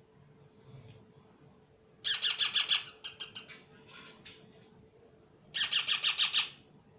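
Parrot calling in two loud bursts of rapid, repeated notes, each under a second long, with softer chirps between them.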